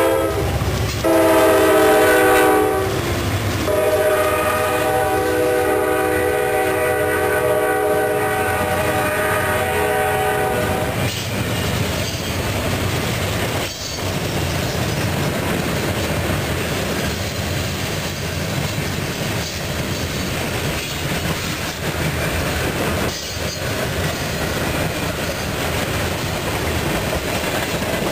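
Norfolk Southern diesel locomotive's horn sounding a chord of several notes as the freight train passes close by. After a short break about a second in, it gives a blast of about two seconds, then one long blast that stops about 11 seconds in. The rest is the steady rolling noise of freight cars going past on the rails.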